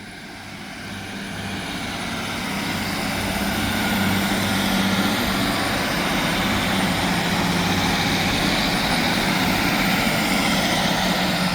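Class 150 Sprinter diesel multiple unit pulling away from the platform, its underfloor diesel engines and wheels growing louder over the first few seconds and then holding a steady drone as the train runs past.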